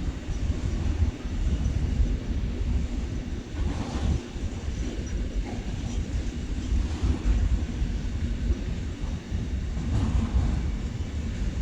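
A train rolling past, mixed with gusty wind rumble on the microphone.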